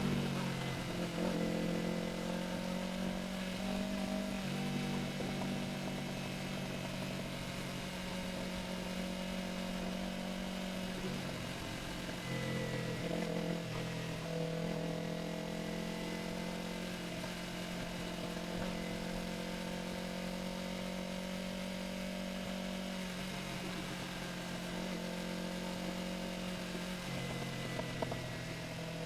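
Yamaha R3's 321 cc parallel-twin engine running at fairly steady revs, with a falling pitch at the start and brief small rises in pitch about twelve seconds in and again near the end.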